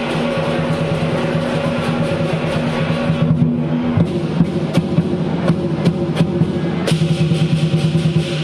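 Lion dance percussion: a drum beaten in rapid, dense strokes, with cymbal crashes and ringing metal percussion over it.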